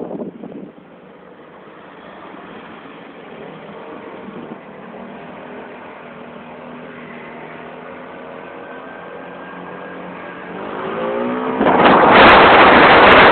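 A motor vehicle engine gradually revving higher, climbing steeply in pitch near the end. Then loud wind buffets the microphone.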